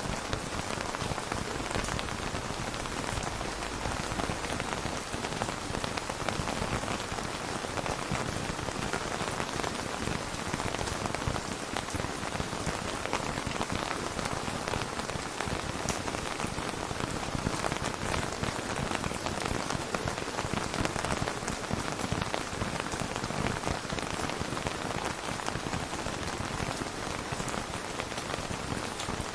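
Steady rain falling on a surface, an even hiss of many small drops with no thunder.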